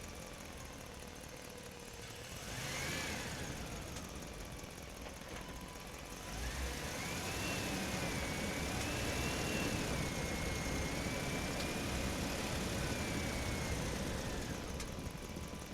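Small electric motor of a toy dump truck whining: a short burst that rises and falls about three seconds in, then a longer, louder run of about eight seconds with its pitch wavering up and down.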